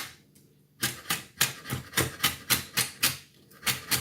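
Kitchen knife chopping celery on a cutting board: sharp knocks, a few spaced strokes and then, about a second in, rapid even chopping at about four to five strokes a second.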